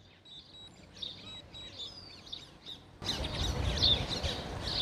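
Small birds chirping in quick repeated calls, faint at first, then louder and busier about three seconds in, together with a low rumble.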